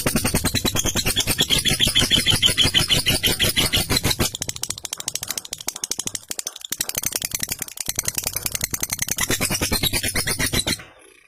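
Lovebird giving its long 'ngekek' call: a fast rattling chatter of rapidly repeated sharp notes. It thins out partway through, picks up again, and cuts off abruptly near the end.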